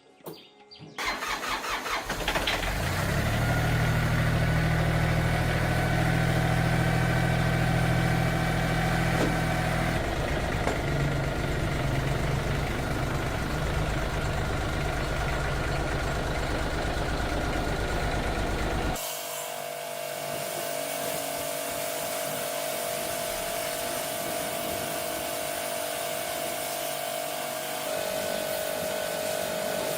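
An engine starts about a second in and runs steadily, its note shifting slightly about ten seconds in. About nineteen seconds in it cuts off abruptly to a different steady machine hum with a high whine.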